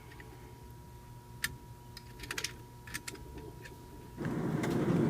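A few light clicks and ticks over a faint steady tone, then a steady rushing noise starts about four seconds in.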